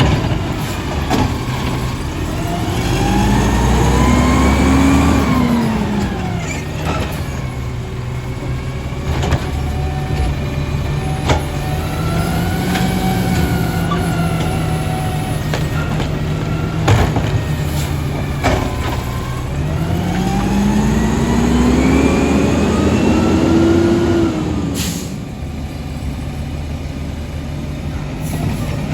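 Garbage truck's diesel engine revving up and dropping back twice, running steadily in between, with scattered clanks and a short burst of noise near the end.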